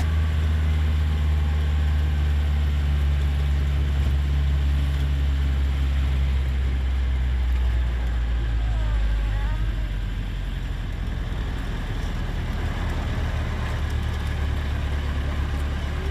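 Steady low engine-like rumble, easing slightly after about ten seconds, with a few faint wavering whistles around the middle.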